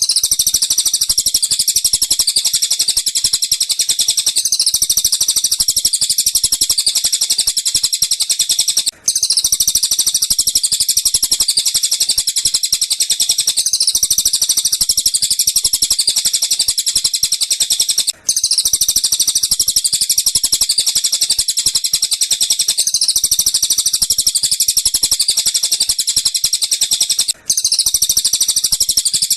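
Looped recording of tengkek buto and cililin bird calls: a dense, fast, high-pitched chirping that runs on without pause. It cuts out for an instant about every nine seconds where the loop restarts.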